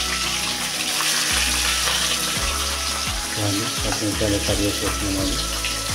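Green chillies frying in hot oil with mustard seeds and cumin in a kadai: a steady sizzle.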